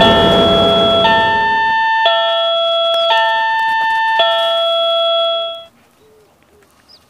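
Railroad crossing warning bell ringing about once a second, alternating between two tones. It stops abruptly about five and a half seconds in. A low rumble runs under the first two seconds and then ends.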